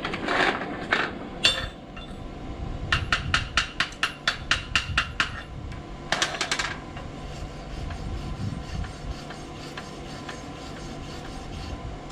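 Steel hammer taps on a fresh stick-weld bead on steel plate: a few heavier strikes, then a quick run of sharp ticks at about five a second, then a short rasping burst. This is typical of chipping slag off a just-finished weld.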